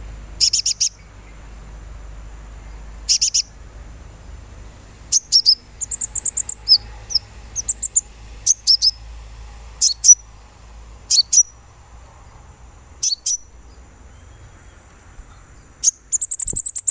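Sunbird chirping: clusters of short, very high-pitched chirps every second or two, some in quick runs of several notes, over a steady thin high whine.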